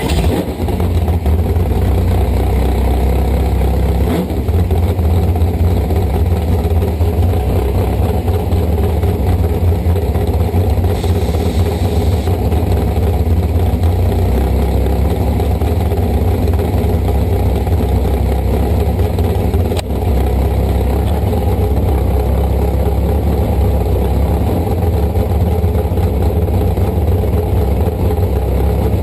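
Big-block V8 jet boat engine running loudly and steadily with a deep, even note, cutting in abruptly at the start.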